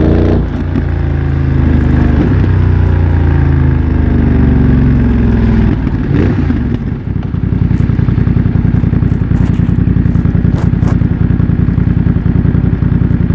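BMW F900 XR's parallel-twin engine through a MIVV X-M1 exhaust, its pitch falling for about six seconds as the bike slows. It then settles into a steady idle.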